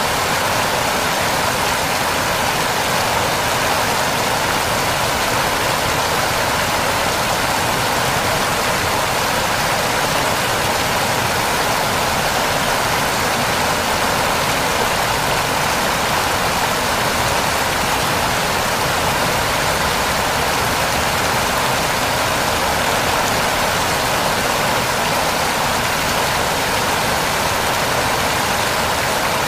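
Waterfall: water falling and rushing in a steady, even stream of noise that never changes.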